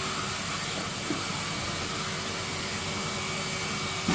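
Numatic Henry vacuum cleaner running steadily: a rush of air with a steady motor whine, and one small click about a second in.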